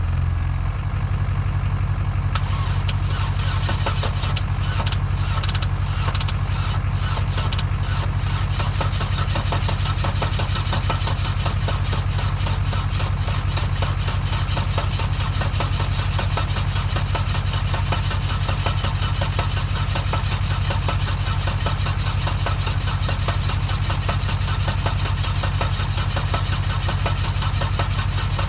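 Service truck idling steadily beside a Chevy Aveo engine, run on water instead of oil, being cranked on its starter with a fast, even beat. A harsher, clattering layer joins about two seconds in. The engine is getting tight as the water ruins its bearings.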